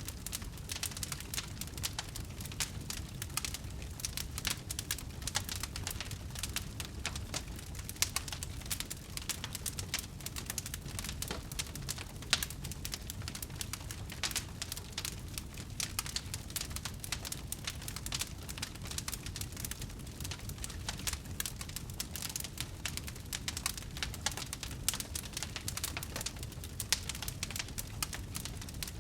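Wood fire crackling: a dense, irregular run of small pops and snaps over a low, steady rumble.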